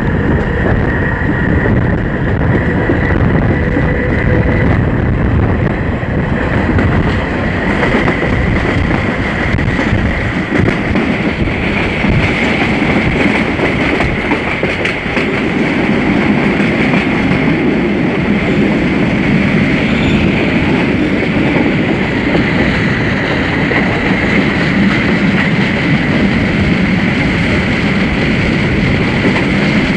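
CPTM commuter train 1115 running with its characteristic growl, a steady loud rumble of the train on the rails with a high whine that rises slightly in pitch over the first dozen seconds, then holds.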